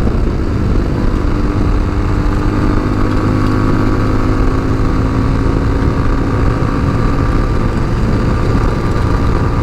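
Tao Motor TBR7 dual-sport motorcycle engine running at a steady cruise while riding, with dense wind rumble on the rider's microphone.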